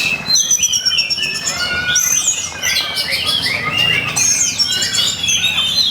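Oriental magpie-robin (kacer) singing loudly and without a break, a rapid string of varied whistles, sliding notes and fast trills, in the agitated fighting song used to provoke other kacer.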